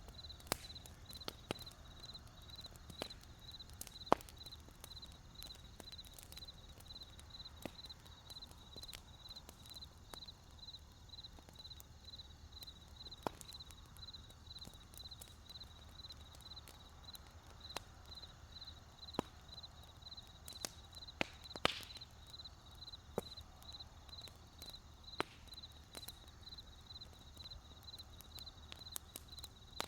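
Wood fire crackling with irregular sharp pops, a louder burst of crackles about two-thirds of the way through. Behind it, crickets chirp in a steady, evenly pulsed high trill.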